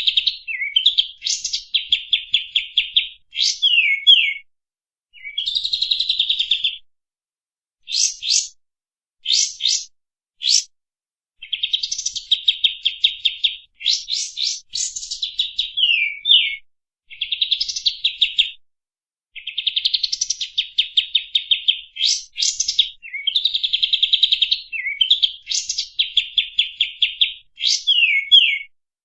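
Songbirds singing in a loud, continuous string of phrases: fast rattling trills mixed with sharp, steeply sweeping whistled notes, broken by short pauses. This is a bird-training 'masteran' recording of the kapas tembak's song mixed with white-rumped shama and other birds.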